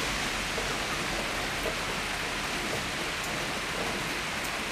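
Steady heavy rain falling and pattering on surfaces, with a few faint drip ticks.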